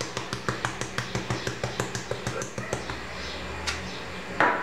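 Pepper mill being turned to grind black pepper, a quick even clicking of about six clicks a second that stops about three seconds in. A single knock follows near the end.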